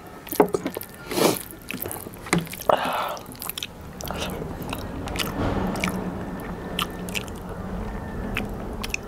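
Close-miked eating by hand: fingers squish and mix rice and curry on a plate with sharp wet clicks and smacks, then a mouthful of biryani and chicken is chewed wetly from about four seconds in.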